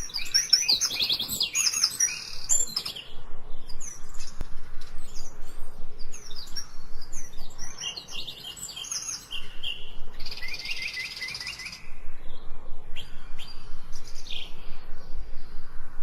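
Several wild birds chirping and singing in overlapping calls, with a rapid trill about ten seconds in.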